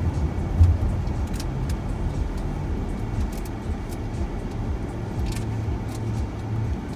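Passenger van driving, heard from inside the cabin: a steady low road and engine rumble with a few faint knocks and rattles.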